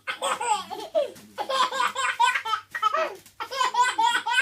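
Toddler laughing hysterically, in three runs of high-pitched belly laughter separated by brief breaths.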